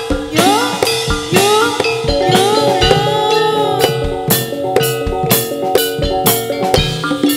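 Live Javanese gedruk and topeng ireng dance music: drums under a steady held note, with a gliding, bending melody line through the first half. From about four seconds in, a quick run of sharp drum strokes takes over.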